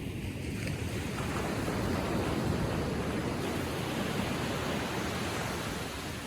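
Ocean waves washing onto the beach, a steady rush of surf that swells about a second in and eases off near the end.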